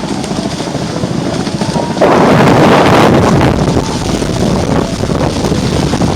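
Wind buffeting the microphone and water rushing past the hulls of a Hobie 16 catamaran sailing fast. A louder rush comes about two seconds in and eases off after a second or so.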